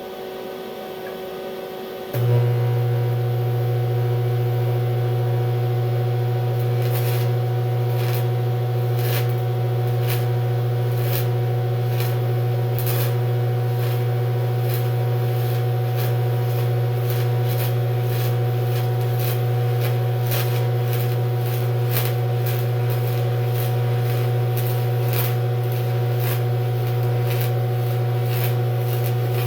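TIG welder arc on DCEP welding aluminum with flux-coated rod: a loud steady low buzz starts suddenly about two seconds in as the arc is struck, with irregular crackling and snapping from about seven seconds on.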